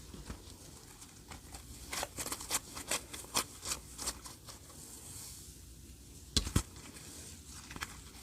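Slime being pressed and stretched by hand, giving off sharp crackly clicks and pops: a quick run of them about two seconds in, then two louder pops a little later.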